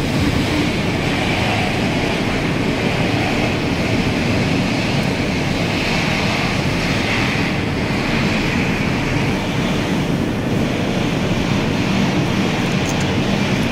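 Steady, even background rumble and hiss.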